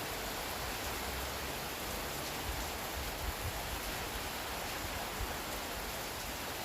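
Steady rain falling as an even hiss, with a few brief low bumps around the middle.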